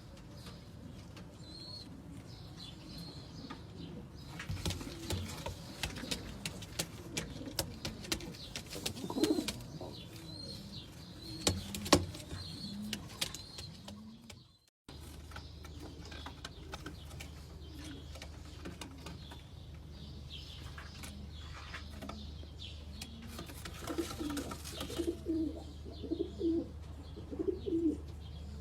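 Domestic pigeons cooing in a loft, with short high peeps and scattered sharp clicks. About halfway through the sound cuts, and a steady low hum then runs under more bursts of cooing near the end.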